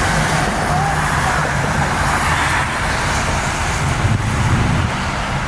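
Steady rumble of a motor vehicle or road traffic, with a low hum and a broad hiss under it.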